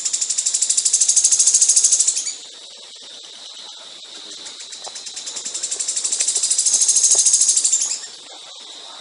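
A songbird singing rapid, high-pitched pulsed trills, the 'shots' of a competition songbird's song. Two long trills each build in loudness and cut off suddenly, the first about two seconds in and the second near the end.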